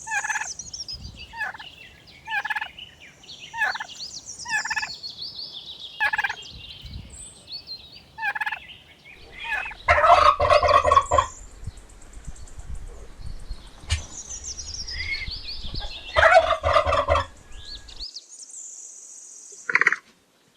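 Turkeys calling: short calls repeated about once a second, then two loud, rattling gobbles about ten and sixteen seconds in. High, descending chirping runs through the background.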